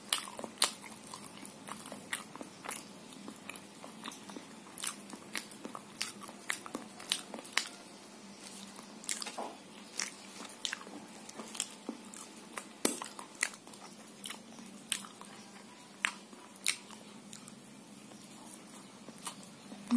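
Close-up eating sounds from chewing popolulu, a fried snack filled with coconut and palm sugar: irregular wet mouth clicks, lip smacks and small crunches, a few of them louder.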